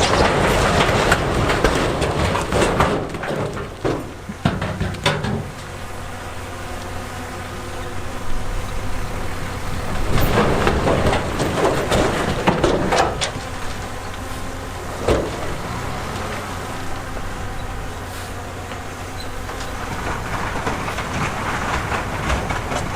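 Heavy diesel earthmoving machinery running steadily, with loud scraping and clattering of stone during the first five seconds and again from about ten to thirteen seconds in, and a sharp knock about fifteen seconds in.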